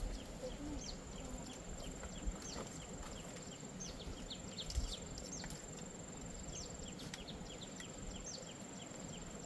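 Insects keep up a steady high-pitched drone that breaks off briefly now and then, over many short, falling chirps.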